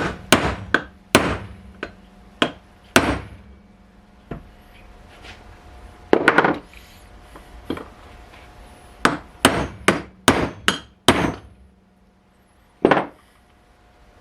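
Metal hammer blows on a bearing press tool set against the inner race of a Porsche 924 front wheel bearing in the hub, struck in irregular clusters: a run of strikes at the start, a pair about six seconds in, a quick run of half a dozen around nine to eleven seconds, and a last blow near the end.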